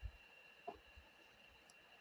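Near silence with two faint short taps about 0.7 s apart, from tarot cards being handled.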